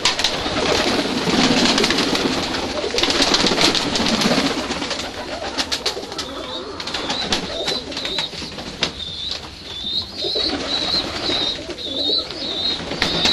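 Doves cooing in low, rolling calls, joined from about halfway through by a thin, high warbling chirp from another small bird.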